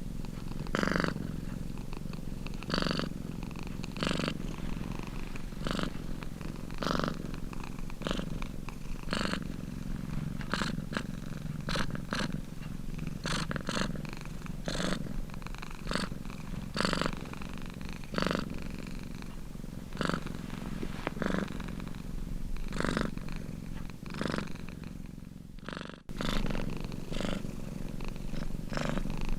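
Domestic cat purring close up, swelling with each breath every second or two. The sound briefly cuts out near the end.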